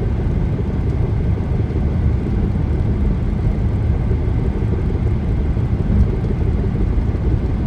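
Car road and tyre noise heard from inside the cabin at highway speed: a steady low rumble with no change through the stretch.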